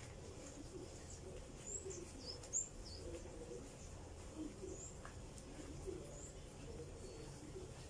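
Faint, short high-pitched chirps, a handful spread through, like small birds calling in the background, over a low steady hum.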